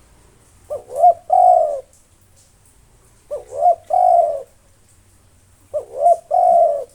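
Spotted dove (tekukur) cooing: three calls about two and a half seconds apart, each a quick wavering double note followed by a longer low coo.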